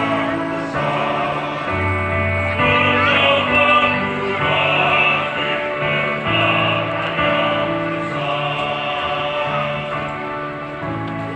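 Mixed choir singing a hymn in parts, holding long notes in harmony.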